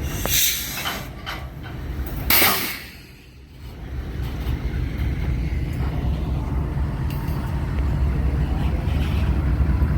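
A freight train rumbling low and steadily, building from about four seconds in, after two short bursts of hiss in the first three seconds, the second one the loudest.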